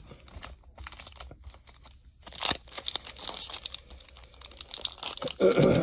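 Crinkling and crackling of a foil trading-card pack wrapper being handled and torn open, growing busier about two seconds in, with a brief louder sound near the end.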